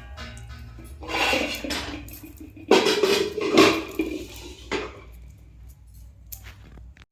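Metal kitchen utensils and dishes clattering in three bursts, the loudest about three seconds in, then a few scattered clinks.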